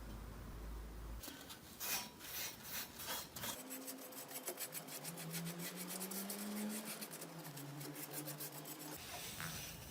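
Rapid, repeated rasping strokes of hand abrasion on a part of an old kerosene lamp, starting about a second in and stopping near the end.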